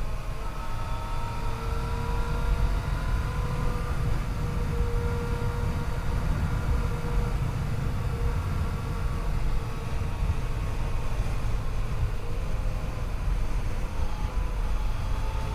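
Yamaha FJ-09's 847 cc crossplane three-cylinder engine running under way at a steady cruise, its pitch rising slightly early on and then slowly easing, over a constant low rumble of wind and road noise.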